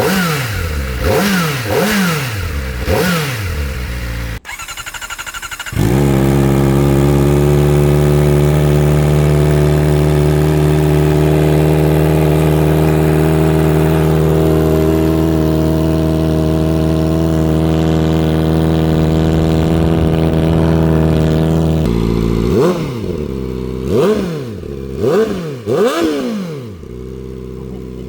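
Kawasaki Ninja ZX-4R's inline-four running through a replica Akrapovič slip-on exhaust. It opens with four quick throttle blips, breaks off, then catches and idles steadily for about fifteen seconds. Near the end come four more quick revs.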